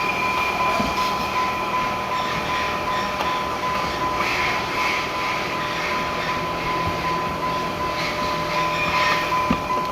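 Car wash machinery running steadily: an even noisy wash with a constant high whine over it and a few faint knocks.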